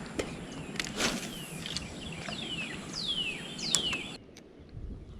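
A bird calling a short series of downward-slurred whistles, each sliding from high to lower pitch, growing louder over about two seconds. Steady wind noise and a few faint clicks run beneath.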